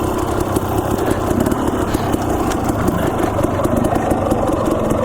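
Dirt bike engine running at a steady pace on a rocky trail, with scattered ticks and knocks over the engine note.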